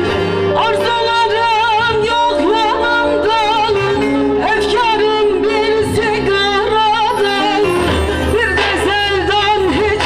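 Turkish folk song (türkü) sung live by a woman, with a wavering, heavily ornamented melody over instrumental accompaniment with steady sustained low notes.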